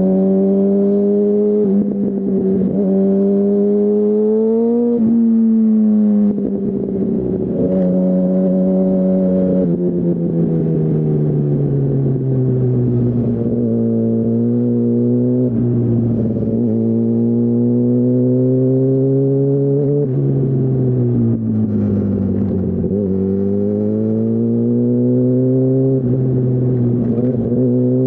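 2008 Yamaha R1's inline-four engine through a Termignoni full exhaust, pulling at moderate revs. Its pitch rises and falls with the throttle, with several quick drops at gear changes and a longer roll-off and pickup late on.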